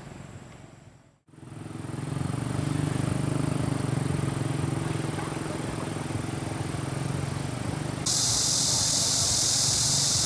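An engine running steadily with a low hum. About eight seconds in, a loud, even hiss cuts in abruptly on top of it.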